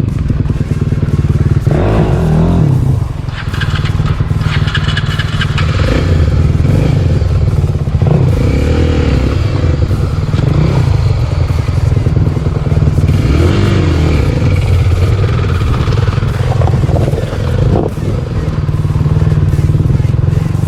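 Motorcycle engine running close by, a steady low note with a few brief rises in pitch as the throttle is blipped.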